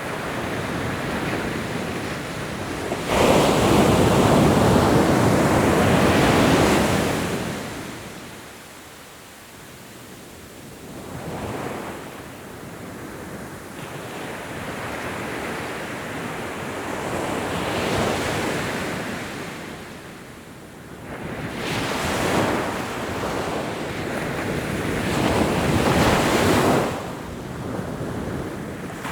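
Ocean waves breaking on a shore: a large wave crashes about three seconds in and washes for several seconds before falling away, followed by smaller surges of surf, a rising and falling rush of water.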